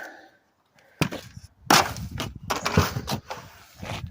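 Small wood chipper chewing up branches: loud bursts of crackling and snapping wood starting about a second in, broken by short gaps.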